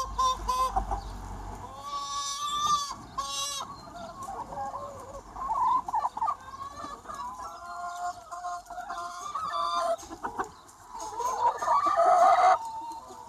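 A large flock of free-range chickens clucking and calling, many birds overlapping, with one louder drawn-out call near the end.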